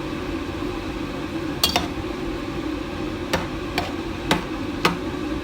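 A spoon stirring sauce in a pan, knocking against the pan five times, over a steady hum.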